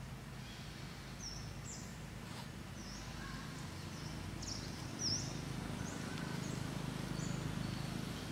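A small bird chirping over and over, short high chirps about once or twice a second, the loudest about five seconds in, over a steady low background rumble.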